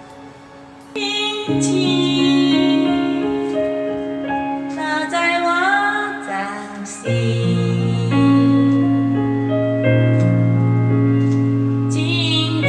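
A slow, gentle song: a woman sings over piano and sustained backing chords, after the music swells in about a second in.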